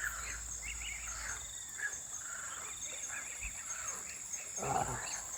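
Night chorus of insects: a steady high-pitched trill, with many short repeated chirps from frogs or insects. A brief rustle near the end.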